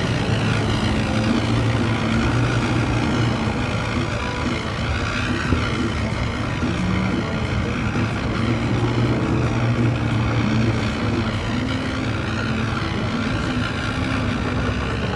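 Motorboat engines running steadily, with several held engine tones at once and a slight waver in pitch.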